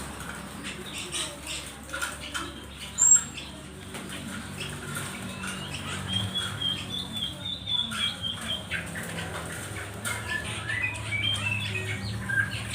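Many small birds crowded together in a packing box, chirping and squawking in short, overlapping calls, with wings fluttering and scrabbling against the box. A loud, sharp high call comes about three seconds in.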